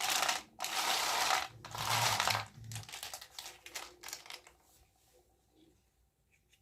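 Toy packaging being handled and unwrapped: three loud rustling, crinkling bursts in the first few seconds, then lighter, scattered crackles that die away.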